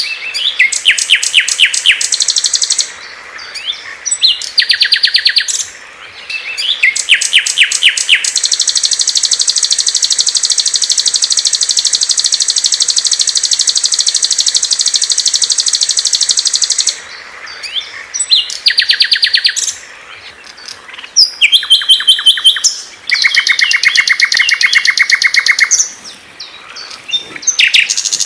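Small songbirds singing loud, fast trills and rapidly repeated chirps in several changing song patterns, including one long unbroken trill of about eight seconds; a medley of songs used as masteran tutor recordings for captive songbirds.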